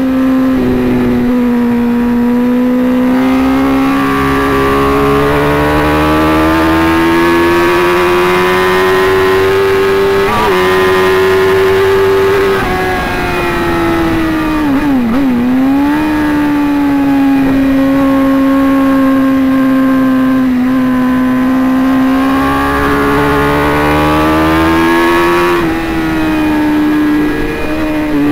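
Sport-bike engine pulling hard at high revs over wind rush, heard from the rider's helmet. Its pitch climbs slowly through long pulls, drops sharply about halfway through as the bike slows and shifts down, then holds steady and rises again before dipping near the end.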